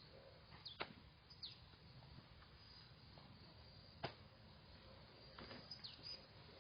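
Faint bird chirps over quiet outdoor ambience, with two sharp knocks about three seconds apart.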